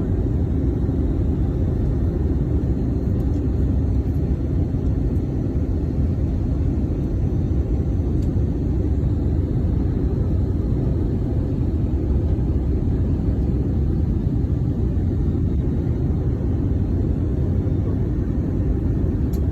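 Steady low rumble of aircraft engine and airflow noise, as heard from inside an airliner cabin in flight.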